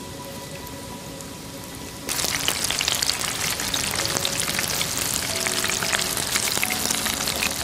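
Food sizzling and crackling in hot oil, starting suddenly about two seconds in and going on steadily as a dense crackle.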